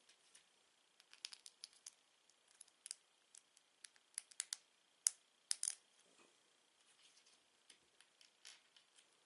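Plastic Lego bricks clicking and clattering as they are handled, a string of irregular sharp clicks that comes thickest and loudest about four to six seconds in.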